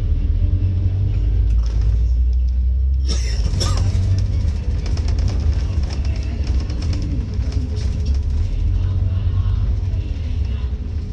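Interior of a Scania K310UD double-decker bus underway: a deep, steady rumble from its engine and driveline, with a short sharp hiss about three seconds in.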